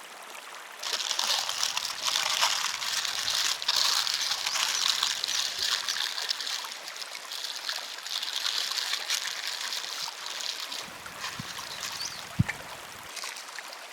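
Water trickling and gurgling, starting suddenly about a second in and easing off near the end, with a single sharp tap near the end.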